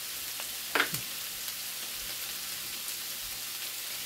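Shredded rotisserie chicken and onions sizzling steadily in olive oil in a skillet, with one louder pop just under a second in.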